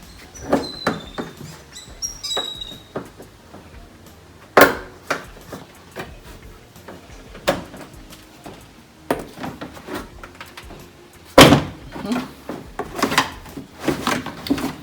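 Plastic car bumper cover and its trim parts being handled and worked loose: a string of irregular clicks and knocks, with two louder knocks about a third of the way in and past the three-quarter mark.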